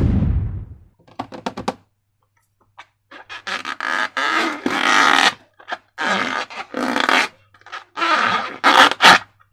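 Slime being squeezed and worked by hand, making wet squelching and crackling noises in irregular bursts. A low, fart-like squelch opens the run, then quick crackles, then longer squishy bursts.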